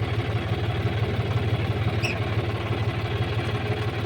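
Heavy diesel engine idling steadily, an even low throbbing rumble.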